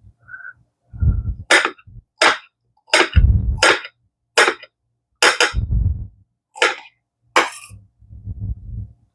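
Kitchen knife chopping a green bell pepper on a cutting board: about nine sharp chops, roughly one every 0.7 s, with dull knocks of the board and pieces between them.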